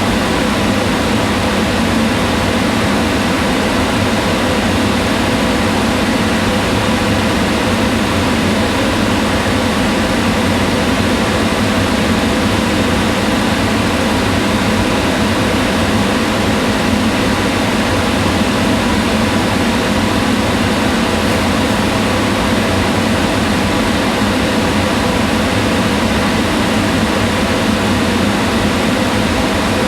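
Kitchen range hood fan running steadily: an even rushing of air with a low motor hum and faint steady tones.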